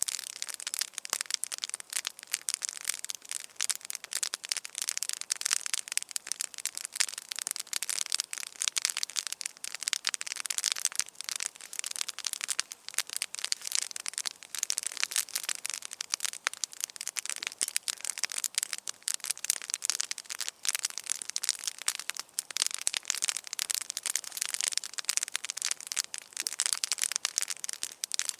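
Wood campfire burning, with a dense, steady crackle of many small pops and snaps.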